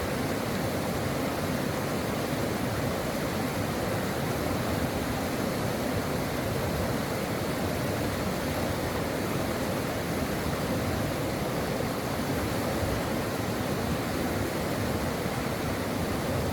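Stream water rushing and babbling over rocks, a steady full rush without pause.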